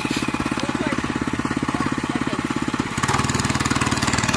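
Small motorcycle engine running with a rapid, even firing beat. About three seconds in, the sound changes abruptly to a different, slightly louder engine note.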